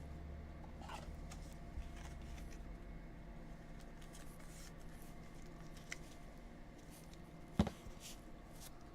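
Faint handling of trading cards: soft rustles and small clicks over a steady low hum, with one sharper click a little past three-quarters of the way through.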